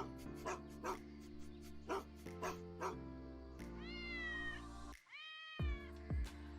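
A cat meowing twice, each a drawn-out call that falls slightly at the end, over background music with a steady beat.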